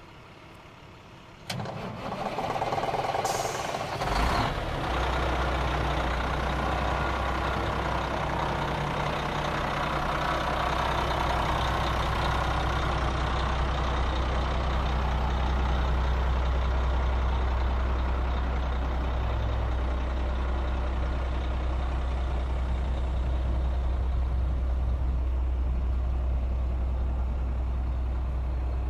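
Diesel engine of a 2000 International 2674 plow truck being cranked by its starter for about two and a half seconds, catching, then idling steadily with a low hum.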